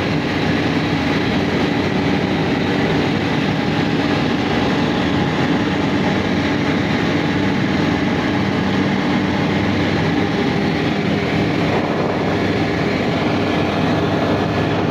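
Steady roar of an airplane in flight heard from inside the passenger cabin: engine drone and rushing air, with several steady hum tones under it.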